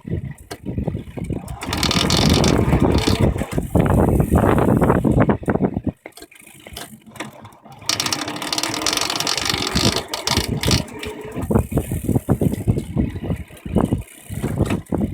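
Drivetrain of an e-bike with a Bafang BBS02 mid-drive motor and a Shimano Nexus 8 internal gear hub rattling and clicking irregularly while pedalled with the motor under stress. The noise drops away for a couple of seconds in the middle, then comes back. This is the odd noise the owner is trying to find.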